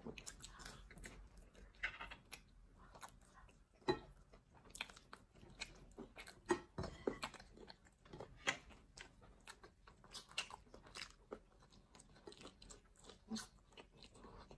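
Two people chewing and biting pizza: faint, irregular crunches and short mouth clicks.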